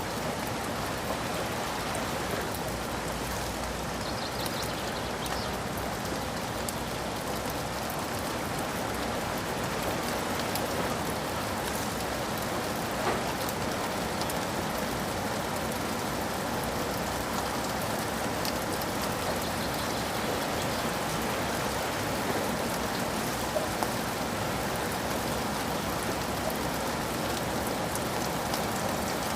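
Steady rain falling, an even hiss with scattered sharper drops.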